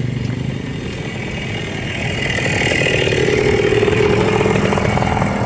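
A small motorcycle engine running with a buzzing note, growing louder about two seconds in as it comes closer, then holding steady.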